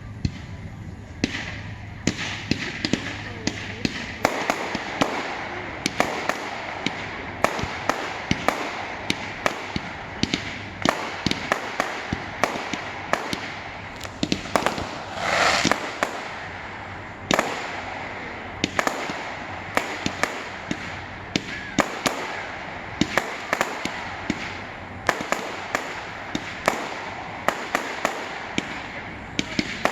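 Fireworks finale barrage: a rapid string of sharp bangs, several a second, with a louder swelling burst about halfway through.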